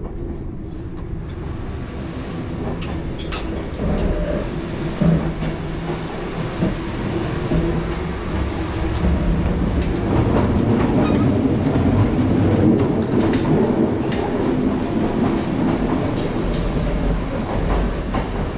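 Kintetsu Blue Symphony limited express train running on the rails, a steady rumble with the wheels clicking over rail joints, growing louder about ten seconds in.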